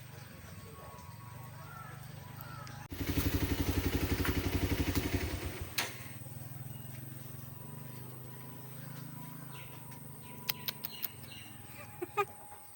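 A motor engine runs close by for about three seconds, with a rapid even pulse, starting abruptly and then fading. Under it there is a steady low engine hum, and a few light clicks come near the end.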